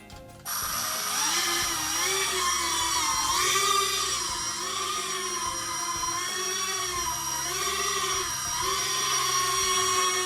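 Air Hogs Helix X4 Stunt toy quadcopter's small electric motors and propellers whining. The whine starts suddenly about half a second in, and its pitch wavers up and down as the throttle changes.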